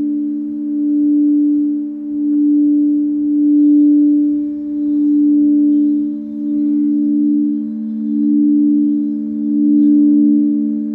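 Singing bowl held in a sustained hum: two steady low tones with fainter higher overtones, swelling and fading in slow waves.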